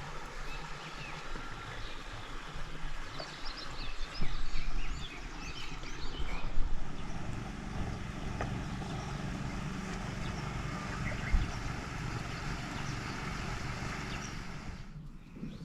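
Outdoor ambience with a steady low motor hum that grows stronger about halfway through, over many short, high chirps in the first half.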